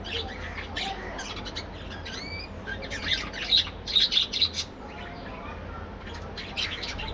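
A colony of budgerigars chattering and squawking, with a busy cluster of sharp calls in the middle and a few rising whistled notes among them.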